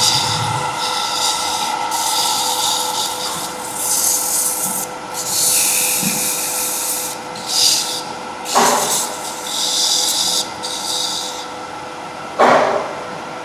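Wood lathe running with a steady motor whine while a turning tool cuts the spinning wooden humming-top blank in short hissing passes. Two sharp knocks come in the second half.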